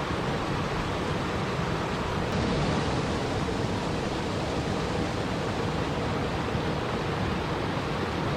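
Steady, even rushing of water with no distinct events, a continuous relaxation-ambience wash.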